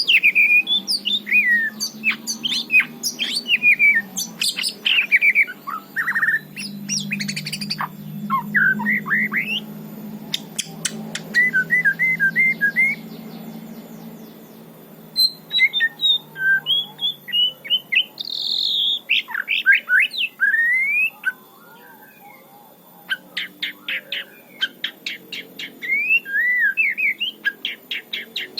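White-rumped shama singing: varied loud whistled phrases sliding up and down in pitch, mixed with fast runs of short dry ticking notes, with brief pauses between bursts. A low steady hum lies underneath.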